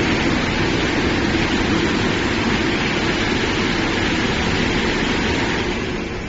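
Tunnel car wash machine running: a steady rushing noise of its sprays and machinery that drops somewhat near the end.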